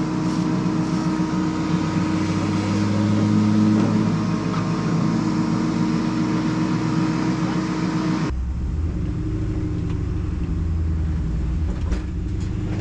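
Race car engine running steadily, with a brief rev about two to four seconds in. About eight seconds in, the sound changes abruptly to a deeper, rougher engine note, which rises in pitch near the end.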